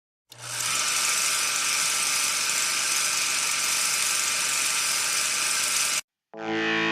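A steady whirring hiss that starts suddenly and cuts off sharply after about six seconds; after a brief silence, electric guitar music begins near the end.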